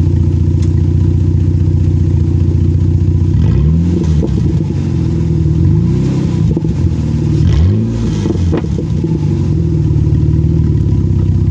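Jeep Liberty engine with its exhaust deleted, idling loud and warbly, then blipped up and back down a few times in the middle before settling back to idle.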